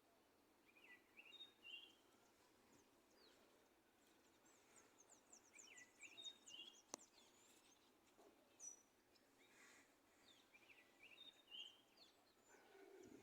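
Faint dawn chorus of small songbirds: short chirping phrases repeated every few seconds and a quick run of high notes, with a single sharp click about seven seconds in.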